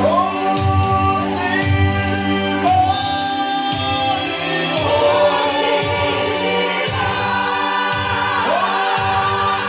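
Gospel song sung by a group of voices in harmony, held and sliding notes, over a bass pulse that comes and goes about once a second.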